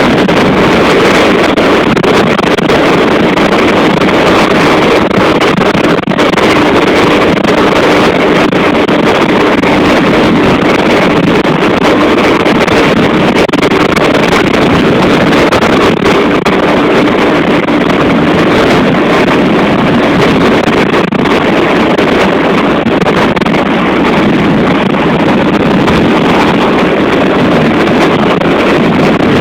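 Strong dust-storm wind blasting across the microphone: a loud, steady rushing roar with no letup.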